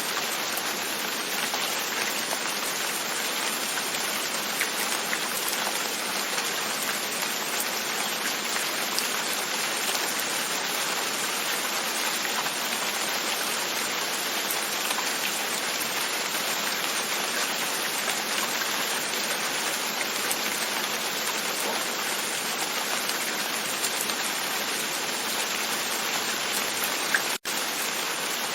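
Steady rain pattering on a window pane, an even hiss of drops with faint scattered taps. It breaks off for an instant near the end.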